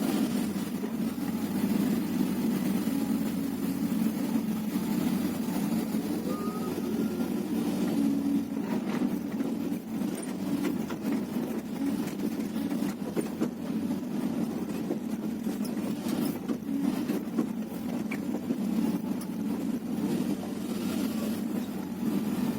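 Hyundai R330LC-9S excavator's diesel engine running steadily at working revs, with a few sharp knocks and clatters in the middle stretch.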